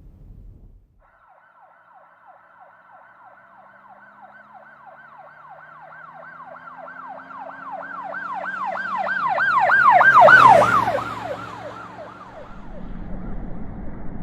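Emergency vehicle siren in a rapid yelp, about four rises and falls a second, growing louder as the vehicle approaches and passing loudest about ten seconds in before fading, with its engine heard beneath.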